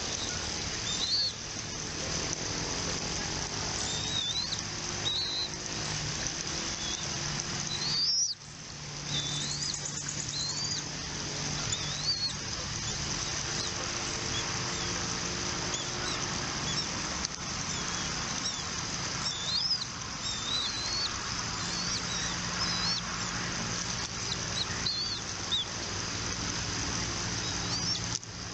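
Birds chirping at a nest: scattered short, high, upward-hooking chirps over a steady high hiss and a low hum, with a brief break about eight seconds in.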